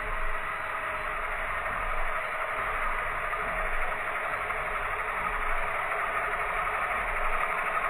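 Toy RC helicopter's small electric motors and rotor blades running steadily in flight: a continuous whirring hum with a steady high tone.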